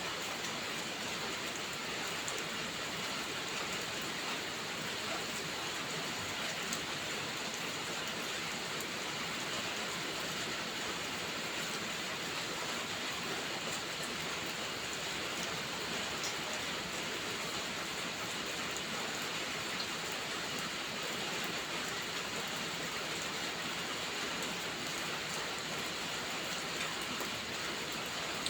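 Steady rain falling: an even hiss with a few faint drop ticks, unchanging throughout.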